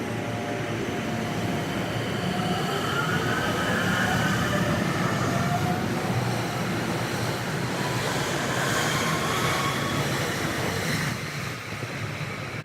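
Train running on rails, sped up to double speed so it sounds higher and faster, with faint whining tones sliding up in pitch a few seconds in; the noise drops a little near the end.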